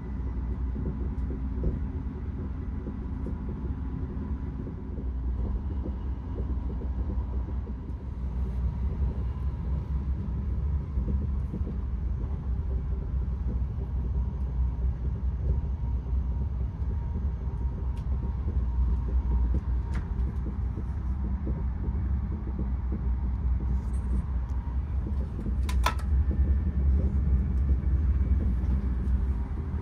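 Cabin noise of an ED250 Pendolino high-speed train running at speed: a steady low rumble. A few sharp clicks stand out as the seat fittings are handled, the loudest about 26 seconds in.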